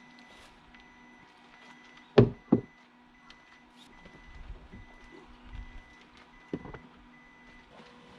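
A faint electronic beeper sounds in short, evenly spaced beeps, like a vehicle's reversing alarm. Two sharp, loud knocks come about two seconds in, and a lighter one comes near seven seconds.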